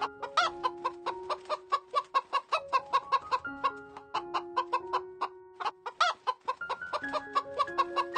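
Chicken clucking in a rapid run of short, sharp clucks, about three a second, over background music holding steady notes.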